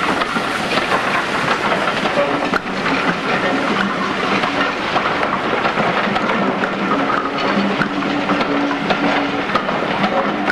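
Passenger coaches rolling past, their wheels clicking irregularly over the rail joints over a steady running rumble.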